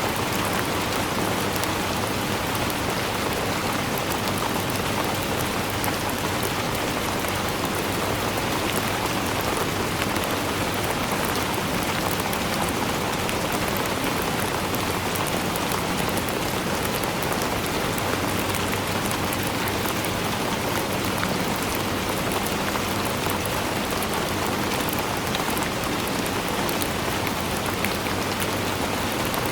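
Steady rainfall, an even hiss of rain with many small drops ticking on a surface.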